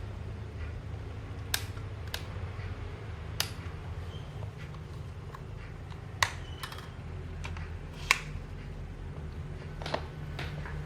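Scattered small, sharp clicks and taps, about seven in all, from handling a camera body and small tools on a workbench, over a steady low hum.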